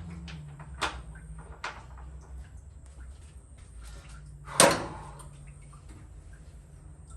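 Clinks and knocks of water-pump bolts and hand tools being handled and set down, with one loud, sharp metallic clink about four and a half seconds in.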